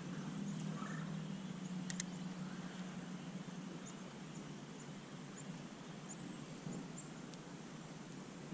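Faint outdoor river ambience: a soft steady hiss under a low hum that fades over the first few seconds, one sharp click about two seconds in, and a run of faint, short, high chirps in the second half.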